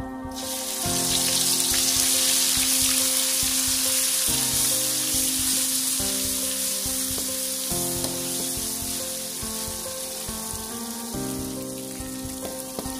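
Ground spice paste dropped into hot oil in a wok, sizzling at once and then slowly dying down as it is stirred and fries. Background music plays underneath.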